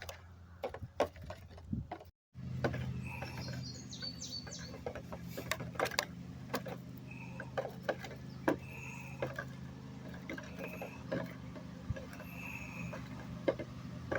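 Scattered clicks and rattles of a bird feeder being handled, over a steady low hum that starts about two seconds in.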